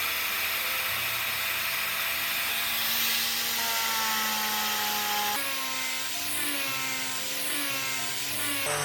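A power tool running steadily with a hissing, grinding noise over background music; the tool's sound changes abruptly about five seconds in, then wavers up and down.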